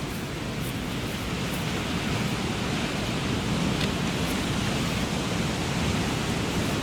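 Steady rushing noise of surf and wind at the shoreline, slowly getting a little louder, with no distinct events.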